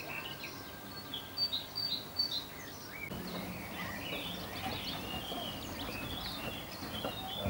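Several small birds chirping and singing, many short calls overlapping, over steady outdoor background noise.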